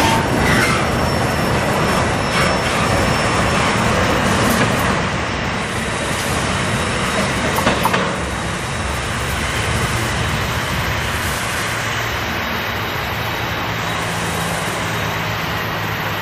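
Double-stack container freight train rolling past on the rails, its wheels clattering, with a sharp clatter about eight seconds in. The noise drops after about five seconds as the last cars draw away, leaving a steady low rumble.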